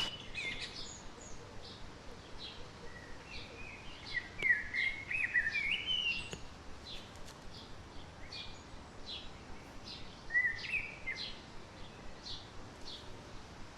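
Wild birds singing: short high chirps repeating about every half second or so, with warbled phrases of rising and falling notes twice, over a faint steady hiss.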